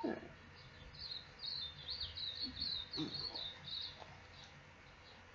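A songbird singing a quick run of chirping, warbling high notes that lasts about three seconds.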